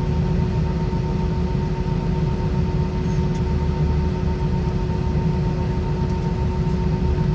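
Cabin noise inside an Airbus A320 with IAE V2500 engines: a steady low rumble with two steady hum tones over it, the engines at low thrust as the airliner taxis.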